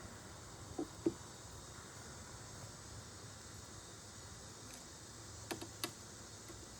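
A few light knocks and clicks of wooden beehive boxes and frames being handled, two about a second in and two more near the end, over a faint steady background.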